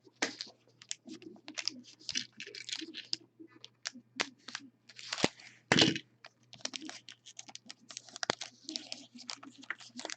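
A trading card pack's wrapper being torn open and crinkled by hand: a run of crackling and rustling, with a few sharp snaps.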